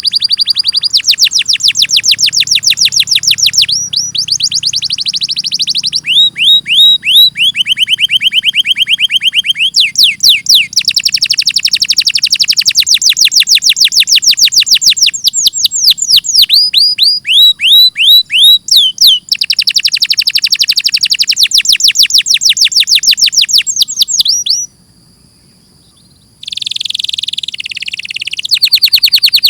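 Domestic canary singing long runs of rapid trills, each phrase a fast string of identical repeated notes that switches to a new note every few seconds. About 25 seconds in it pauses briefly, then gives a couple of rougher, buzzier notes before trilling again.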